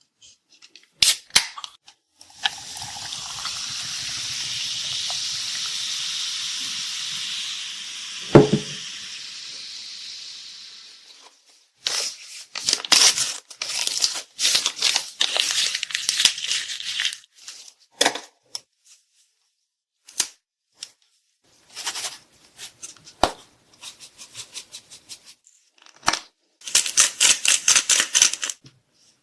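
Close-up sounds of handling food and tableware for a meal: a long steady hiss, a single sharp knock about eight seconds in, then irregular bursts of crackling and crinkling that come quickly near the end.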